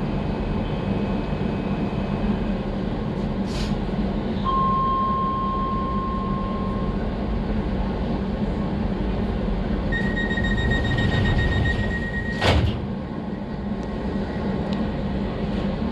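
Docklands Light Railway train with a steady low hum. A long electronic tone sounds a few seconds in, and a higher warning tone follows about ten seconds in. The warning tone ends in a sharp thud of the sliding doors closing.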